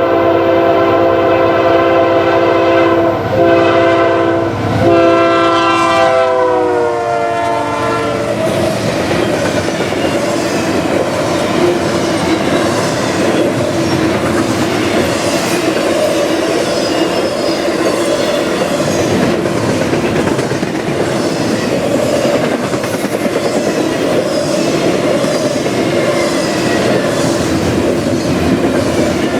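Locomotive horn sounding a chord of several notes, broken twice, whose pitch drops as the locomotive passes, followed by the train's cars rolling by with a steady rumble and rhythmic wheel clicks over rail joints.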